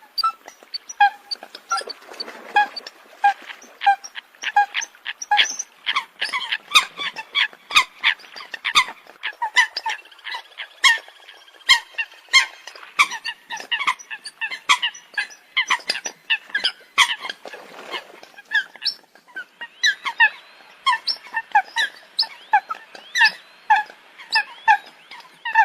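Eurasian coots calling: a continual stream of short, sharp pitched calls, several a second, overlapping one another.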